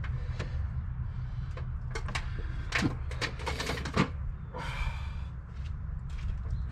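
Hand tools clinking and clattering as they are handled, a string of sharp clicks and knocks over a steady low hum.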